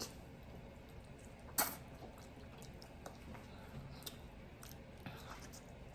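Quiet eating sounds at a meal table: one sharp click of cutlery about one and a half seconds in, then a few faint clicks and soft chewing.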